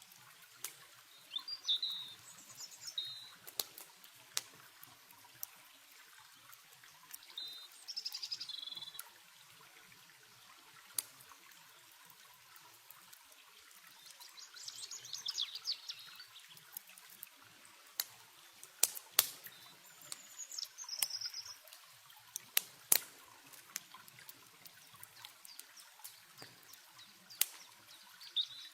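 Campfire crackling with sharp irregular pops over the steady hiss of river water, while songbirds give short chirping calls about five times, one of them a quick trill about halfway through.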